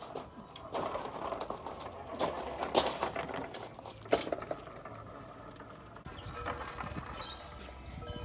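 Irregular mechanical clicks and knocks, busiest about one to three seconds in, with a sharp knock about four seconds in.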